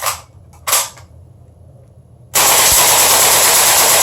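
Two sharp clacks, then about two seconds in a gas blowback airsoft MP5 fires a long, loud full-auto burst of rapid, closely spaced shots that goes on until the magazine is nearly empty.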